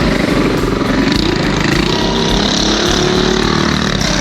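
Boonie bike minibike engines racing, revving with pitch rising and falling over a steady noisy din.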